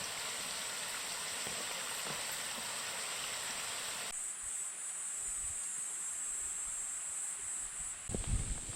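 Insects droning steadily at a high pitch, with a rushing water hiss underneath that cuts off abruptly about four seconds in. Footsteps thud near the end.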